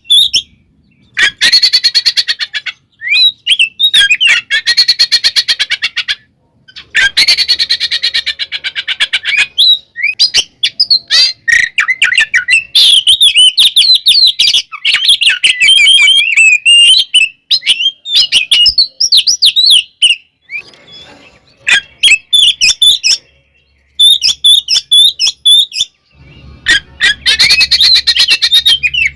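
Oriental magpie-robin (kacer) singing loudly in its aggressive fighting mode: runs of fast, harsh chattering rattles alternate with varied whistled phrases, broken by short pauses.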